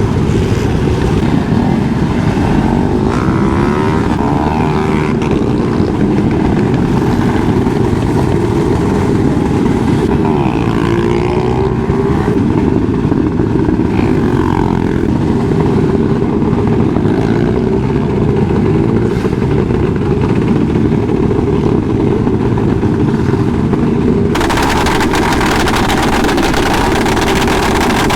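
Motorcycle engine running, its pitch rising and falling over a dense low rumble; the sound turns suddenly brighter and hissier near the end.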